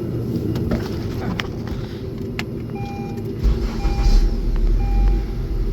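Acura four-cylinder engine running steadily, now without stalling after its faulty engine computer was replaced, the fault that had cut power to the coils on cylinders 1 and 2. About halfway through, the engine sound gets louder and deeper, and a car's two-tone warning chime starts beeping about once a second.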